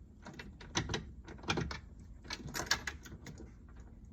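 Irregular rapid clicking and chattering from a 1963 Ford Thunderbird's starter solenoid as the key is turned, without the starter cranking. It is the sign of a loosely connected battery.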